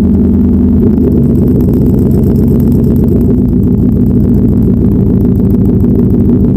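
1998 Ford F-150's 5.4 Triton V8 running through a new exhaust, a loud, steady low exhaust note whose tone shifts about a second in.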